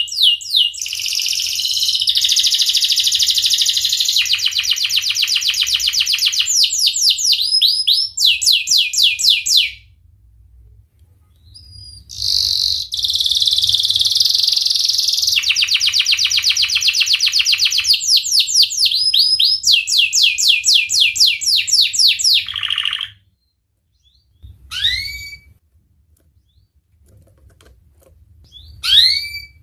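Domestic canary singing two long phrases of fast repeated trilled notes, about ten seconds each, with a short pause between them, then a few short single calls near the end.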